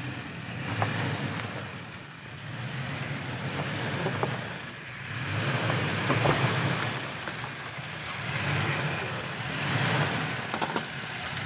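2022 Toyota Tacoma pickup crawling slowly over a narrow rocky trail: the engine runs low and steady under light throttle, with tyres crunching on dirt and stones and a few sharp clicks.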